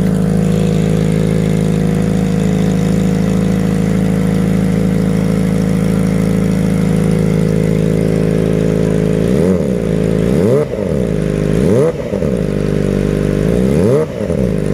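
Kawasaki ZX-25RR's inline-four engine through an aftermarket racing exhaust, idling steadily, then blipped on the throttle about four times in quick succession near the end, each rev rising and falling sharply.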